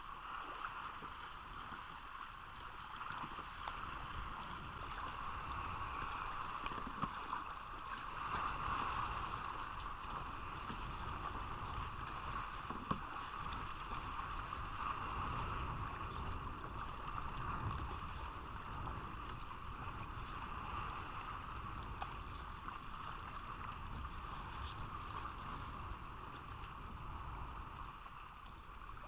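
Steady rushing noise of water and wind around a kayak on the sea, with a few faint clicks.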